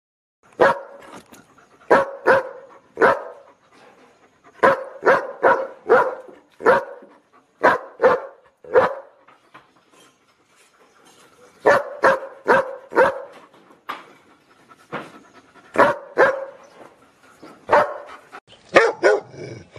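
A dog barking: short, sharp barks in irregular runs of two or three, with a pause of a few seconds about halfway through.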